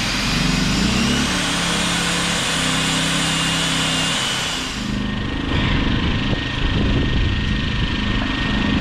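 Small Champion inverter generators running after carburetor service, with a steady engine hum whose pitch shifts a little. About 5 seconds in the sound changes: the higher part fades and a rougher, lower rumble takes over.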